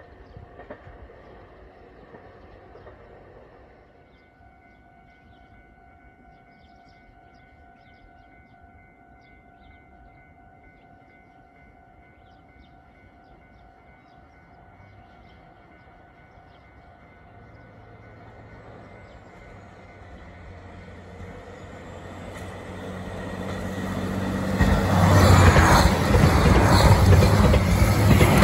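A limited express train approaching along snowy track, growing steadily louder over the last ten seconds, then passing close by at speed with a loud rush of wheels on rails.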